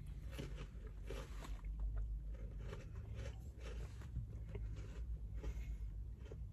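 Close mouth sounds of someone chewing and crunching a sweet: a run of short, irregular crackles over a low steady hum.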